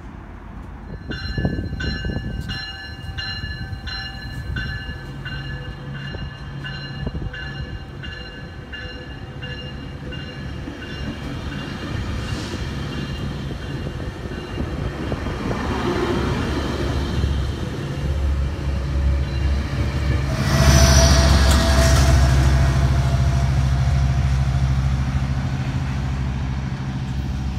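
Trains moving through a station: a bell rings in quick repeated strikes for the first dozen seconds over the low rumble of a diesel locomotive, and railcars roll past. About three-quarters of the way through, a Metrolink diesel locomotive comes close with a loud horn, the loudest part of the sound.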